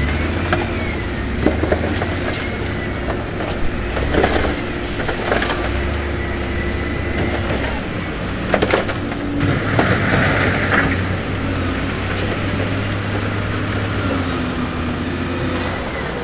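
Heavy diesel construction machinery running with a steady low drone, broken by several sharp clanks and knocks of stone or steel.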